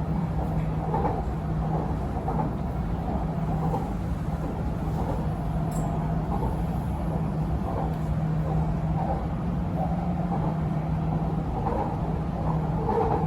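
Inside an MRT Purple Line electric train running between stations: a steady rumble with a low hum that drops out now and then.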